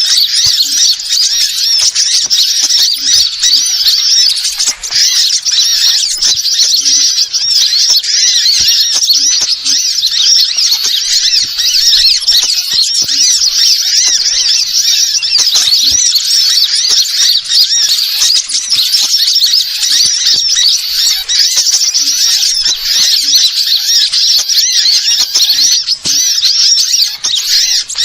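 Small birds twittering in a dense, unbroken chorus of rapid high chirps, the kind of recording played as a lure call to draw wild birds in.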